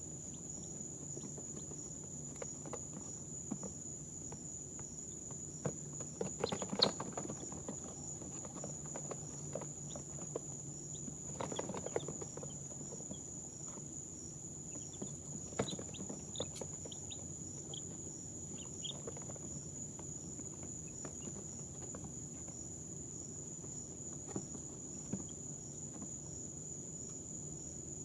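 Two-day-old chicks rustling and scratching now and then, with a few faint short peeps, over a steady high-pitched whine and a low hum.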